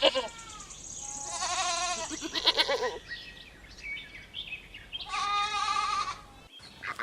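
Goat bleating: a few drawn-out, wavering bleats, the clearest about a second in and again about five seconds in.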